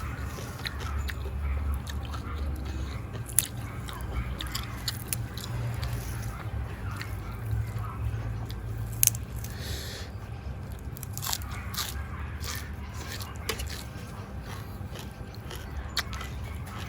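A person chewing and biting food close to the microphone: wet mouth sounds broken by repeated sharp crunches, such as raw meat and crisp fresh vegetables being eaten.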